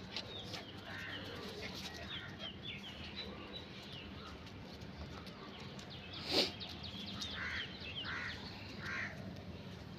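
Birds calling: many quick chirps in the first few seconds, then three short calls under a second apart near the end, with a single sharp click about six seconds in.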